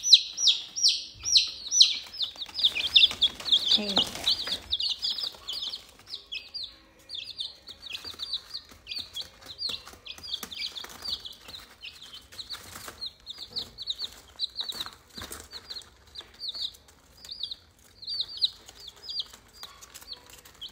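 Pet ring-necked parrot (rose-ringed parakeet) calling in a fast string of short, high chirps, several a second, loudest in the first few seconds, with scattered short rustles.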